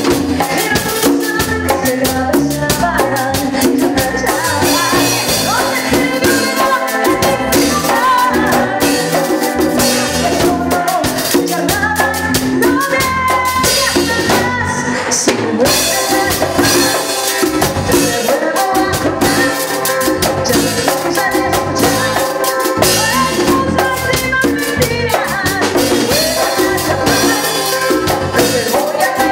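Upbeat grupero band music with a drum kit and shaker-style percussion keeping a steady beat.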